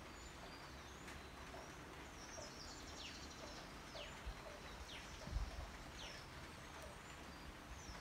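Steady rain falling on foliage, with a bird giving quick high calls that sweep downward, about five times through the middle and end. A brief low thump about five seconds in.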